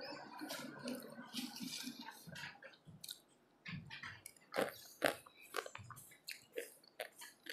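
Close-miked chewing and mouth clicks of a person eating rice by hand, with a short pause a little after three seconds in, then sharper smacking clicks.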